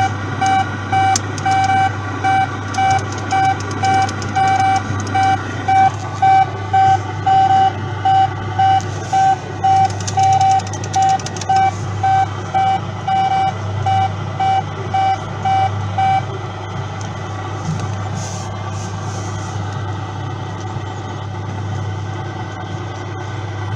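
Kiddie dumper-truck ride playing a reversing-alarm beep sound effect, an even beep about twice a second over a steady low engine-like hum from its speaker. The beeping stops about two-thirds of the way in and the hum carries on.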